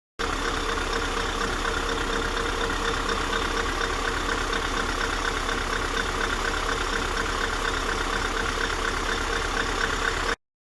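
Scania 770 S's 16.4-litre V8 diesel engine running at a steady speed, with an even, pulsing note that does not rise or fall. It cuts off suddenly near the end.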